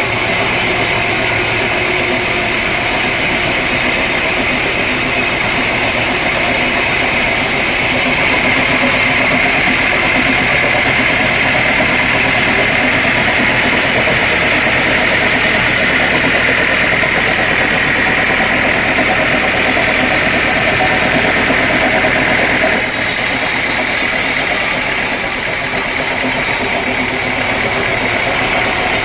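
Sawmill saw and machinery running steadily, with a constant high whine over motor noise; the sound shifts abruptly about eight seconds in and again about two-thirds of the way through.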